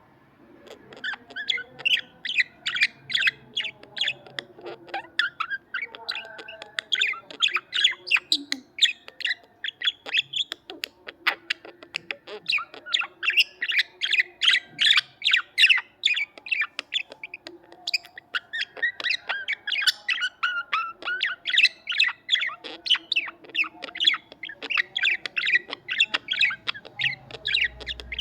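Budgerigars chirping and warbling in a rapid, almost unbroken chatter of short, high chirps.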